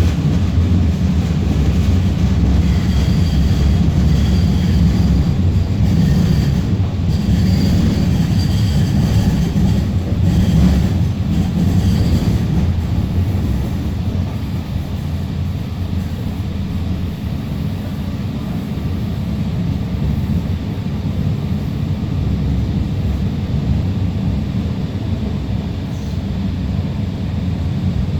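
Alstom Citadis Spirit light-rail train running between stations: a steady low rumble of wheels on rail, with faint high-pitched wheel squeal coming and going in the first half, then a little quieter.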